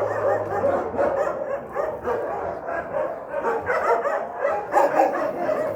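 A dog vocalizing restlessly in a continuous run of short barks and whines, not settling down.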